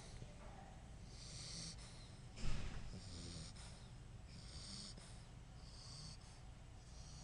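English bulldog snoring in his sleep: short wheezy, hissing breaths about every second, with one louder snort about two and a half seconds in.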